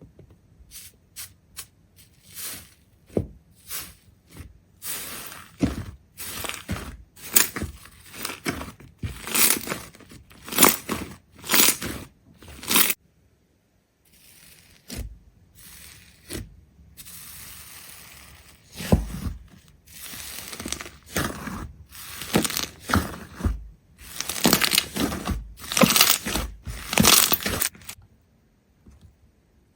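Crisp crackling and crunching in quick irregular bursts, as of something brittle being pressed, torn or crushed. It stops briefly about halfway, then comes back after a softer hissing stretch.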